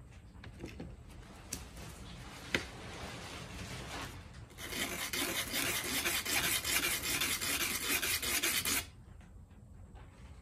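Starter solenoid's internal contact being scraped flat by hand. A few light clicks come first, then about four seconds of quick, steady scraping strokes that stop near the end. The contact is worn and is the reason the starter only works some of the time.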